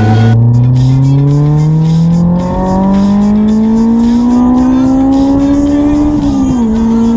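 Honda S2000's high-revving four-cylinder engine accelerating hard through a gear, its pitch climbing steadily toward redline, then dropping with an upshift about six and a half seconds in before pulling again. It breathes through a DIY exhaust with a Helmholtz resonator in place of a muffler.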